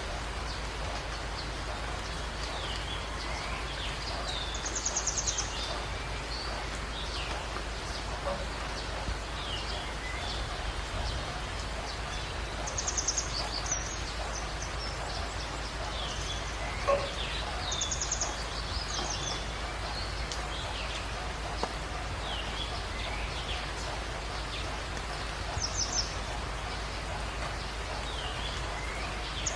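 Wild birds calling over a steady hiss. There are many short, quick chirps, and every several seconds a loud, high, rapid trill stands out.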